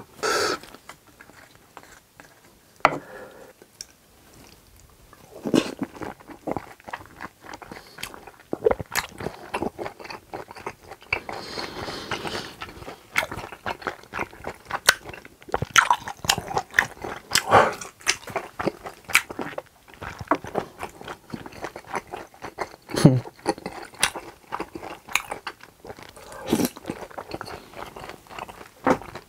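Close-miked chewing of pork intestines (gopchang) in spicy tteokbokki sauce: wet mouth sounds with many small sharp clicks and smacks, with a louder burst as it begins.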